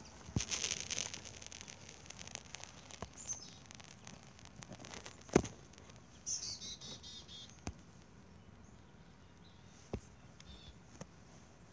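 Quiet outdoor ambience with a short run of rapid high bird chirps about six seconds in and a brief one about three seconds in. A few sharp clicks and knocks are heard, the loudest about five seconds in.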